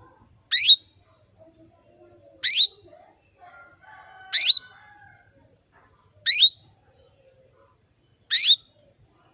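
Female canary calling: a short, sharply rising call note repeated five times, about every two seconds. It is a female in breeding condition calling to a male, the sort of call used to lure male canaries into song.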